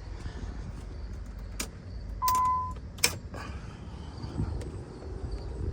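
A few sharp clicks and one short, steady electronic beep lasting about half a second, over a low background hum.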